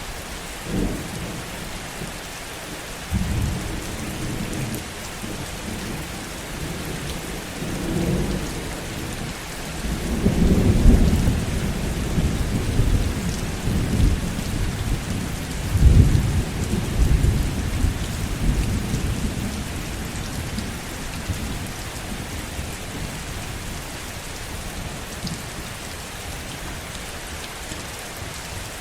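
Heavy rain falling steadily while thunder rolls in low, uneven rumbles, loudest in the middle of the stretch. The thunder then dies away, leaving only the rain.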